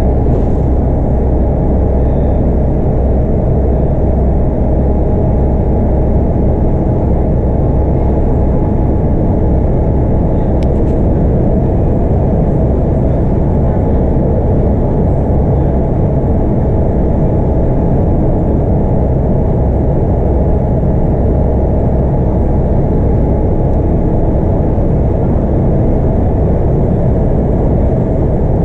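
Scania K230UB bus's 8.9-litre five-cylinder DC9 diesel engine running at a steady pitch with dense road and tyre noise, heard from inside the cabin while the bus holds a steady speed.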